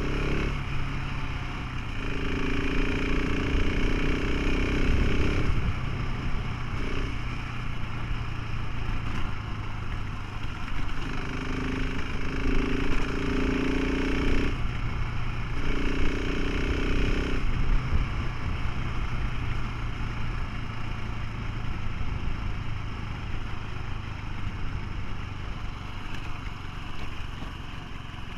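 Motorcycle engine running steadily while riding, with a constant rush of wind and road noise. Its tone rises for a few seconds at a time, several times over.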